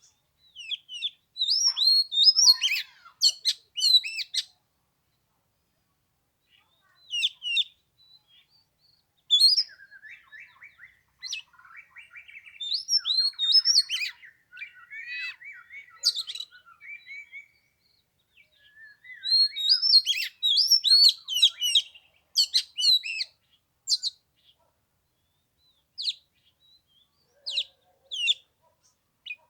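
Oriental magpie-robin singing: phrases of varied, quickly gliding whistles and chirps broken by short pauses, thinning to scattered single notes near the end.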